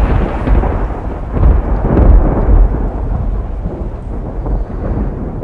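Thunder rumbling, heard from inside a caravan, with rain on the roof; the rumble swells about one and a half seconds in and then slowly dies away.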